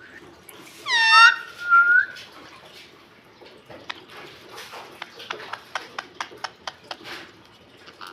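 A pet parrot gives a loud, short call that bends down in pitch, running straight into a steady whistle lasting about a second. A few seconds later comes a run of light, quick clicks.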